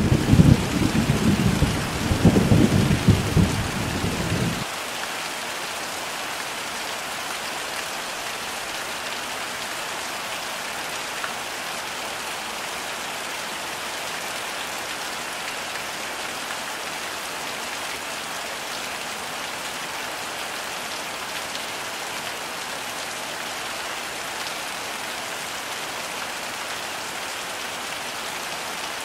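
Heavy rain with thunder rumbling loudly over it for the first four or five seconds; the thunder cuts off suddenly, leaving a steady downpour.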